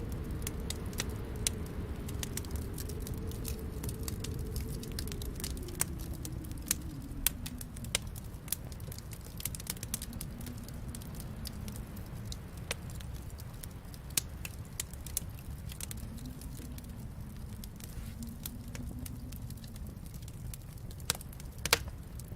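Wood fire crackling, with irregular sharp pops scattered throughout and a few louder ones near the end, over a low rumble that swells and fades.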